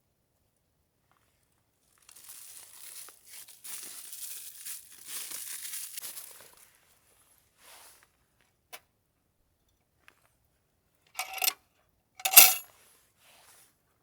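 Packaging crinkling and being torn open for a few seconds, then a small click, then two short, sharp rips near the end, the second one the loudest.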